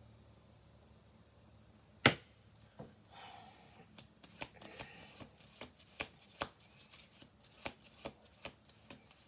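A tarot deck being shuffled by hand. A sharp knock about two seconds in, then a brief flutter of cards and a run of crisp card clicks, two or three a second.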